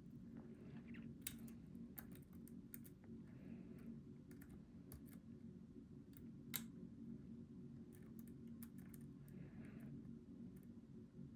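Faint, irregular small metallic clicks and scrapes of a hook pick and tension wrench working the pin stacks of a Goal V18 pin-tumbler lock, one click louder about six and a half seconds in, over a steady low hum.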